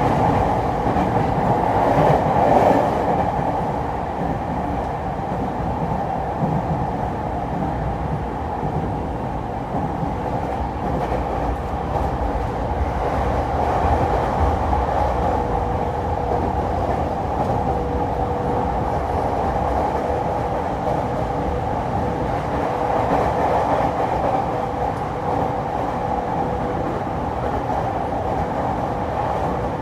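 Running noise of a JR East E231-series electric train heard from inside the car: a steady rumble of wheels on rail. A thin steady tone comes in about halfway through.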